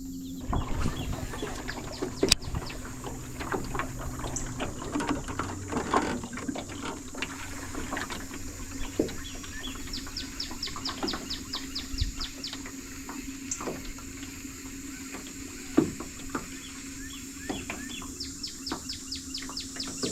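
Outdoor river ambience with small water sounds, scattered light knocks and clicks, and a steady low hum. Twice there is a quick run of high chirping ticks: birdsong.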